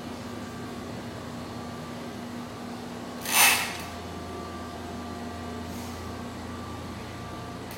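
Office air-conditioning unit running with a steady hum and a few held tones, a little noisy. About three and a half seconds in, a short, loud hiss cuts across it.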